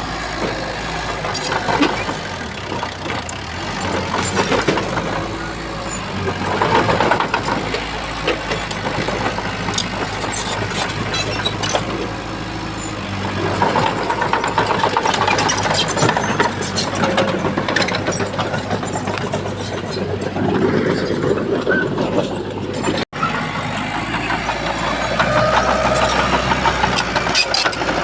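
Diesel engine of a Shantui bulldozer running and working under changing load, its note rising and falling every few seconds, with frequent metallic clanks and rattles. The sound drops out for an instant about three quarters of the way through.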